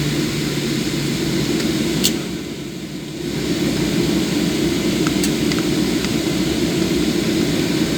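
Steady jet airliner cabin noise after landing, from engines and airflow heard from inside the cabin. A sharp click about two seconds in is followed by a brief dip in the noise, with a few faint ticks later.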